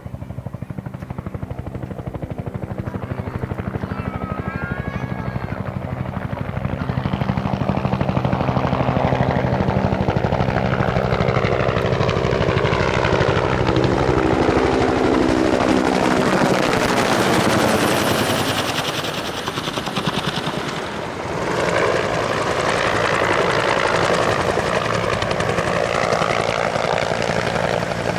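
Military Bell two-blade-rotor helicopter flying a low display pass, its rotor thump and turbine growing louder over several seconds. The sound sweeps in pitch as it passes, dips briefly about twenty seconds in, then swells again as it comes back around.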